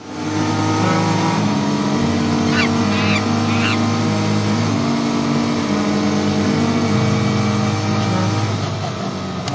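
A vehicle engine running steadily, its pitch stepping up and down a little. A few short high squeaks come about three seconds in.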